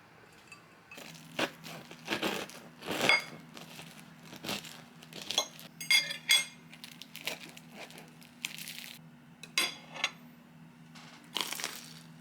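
Household items being handled: glass and hard containers clinking and knocking, with plastic crinkling, in a string of irregular bursts. A low steady hum starts about a second in beneath them.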